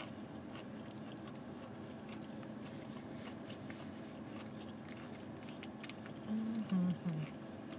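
Close-miked chewing and mouth sounds of a person eating, with a few faint clicks. Near the end come three short hummed sounds.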